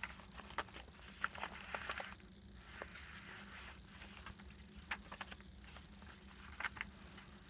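Paper pages and tags of a handmade junk journal being turned and handled: faint rustles with scattered light taps and clicks.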